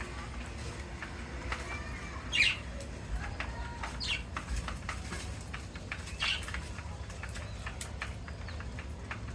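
Indian ringneck parakeets at feeding time: three short, shrill calls among scattered light clicks and rustles, over a steady low hum.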